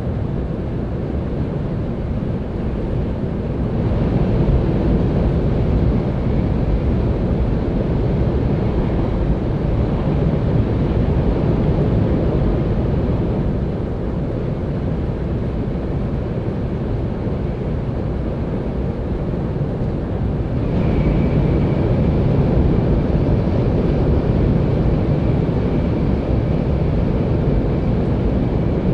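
Steady running rumble of a 700 series Hikari Rail Star shinkansen at speed, heard from inside the passenger car. About two-thirds of the way through it grows louder and a thin high whine joins in as the train runs into a tunnel.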